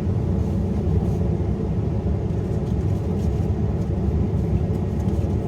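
Steady low rumble inside a parked car's cabin, from the car's heater running to warm it.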